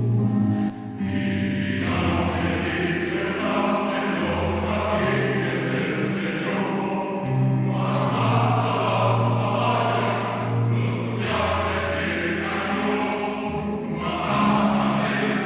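Choir singing, a mixed amateur choir holding sustained chords that change phrase by phrase, with a brief dip just under a second in.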